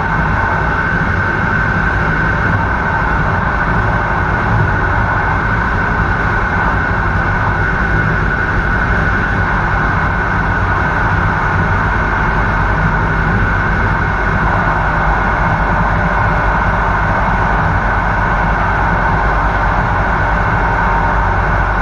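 Steady running noise of a PKP Intercity train travelling along the line, heard from its rear end: an even rumble and rail hiss with no clicks or changes.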